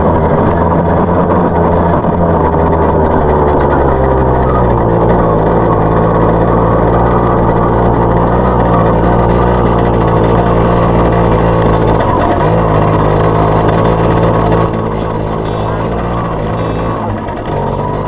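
Small four-stroke dirt bike engine running steadily, its note shifting a few times as the throttle changes.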